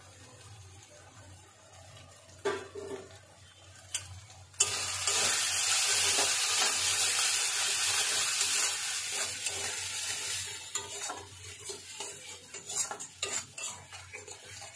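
Spice paste frying in oil in a steel karahi, stirred with a spatula. A couple of spatula taps are heard, then a sudden loud sizzle about four and a half seconds in that eases off over several seconds. After it the spatula scrapes and clinks against the pan as the masala is fried down.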